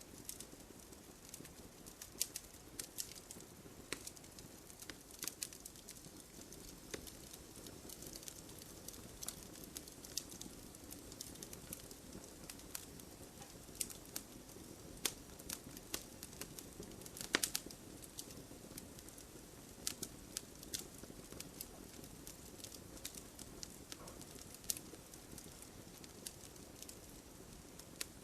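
Wood fire in a fireplace crackling: scattered sharp snaps and pops of burning logs over a soft, steady flame rustle, with a short burst of louder pops a little past the middle.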